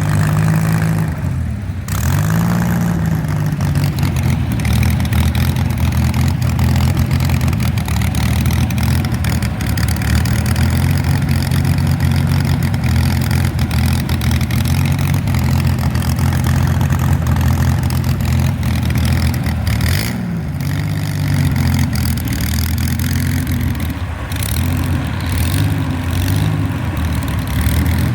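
Vintage tractor engine running steadily, its speed rising and dipping briefly a few times.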